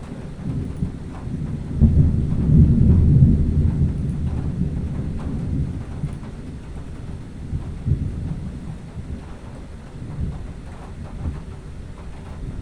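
Thunder rumbling, swelling loud about two seconds in and rolling away slowly over the next several seconds.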